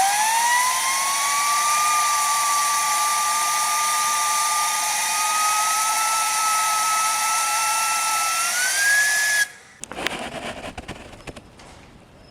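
Homemade small gas turbine running on wood-fire gas: a high whine over a hiss that climbs quickly as it spools up, holds nearly steady, then rises again. It cuts off suddenly about nine and a half seconds in, leaving quieter clicks and rattles.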